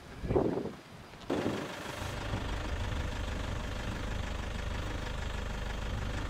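Game-drive vehicle's engine idling steadily, a low even rumble that comes in about two seconds in.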